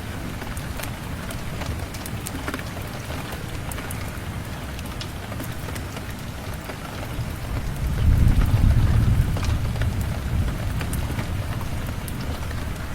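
Steady rain falling, with scattered sharp ticks, and a low rumble of thunder that swells about eight seconds in and slowly fades.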